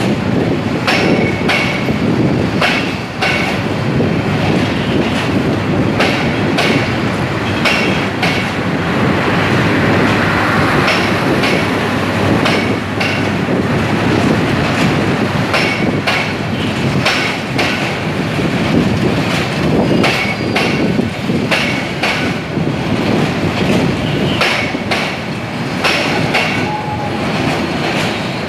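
Express passenger train running past at speed, its wheels clattering over rail joints in an irregular run of clicks over a steady rumble, with a faint high wheel squeal at times.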